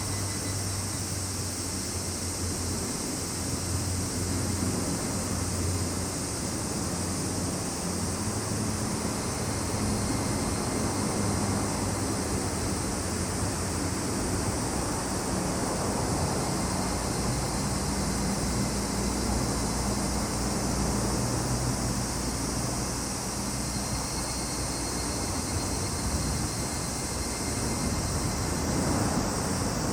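Steady chorus of summer insects, cicadas and crickets, holding a high continuous buzz, with a low engine-like rumble underneath that wavers in pitch.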